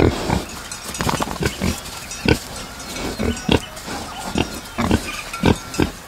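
Piglets grunting: a quick run of short grunts, two or three a second.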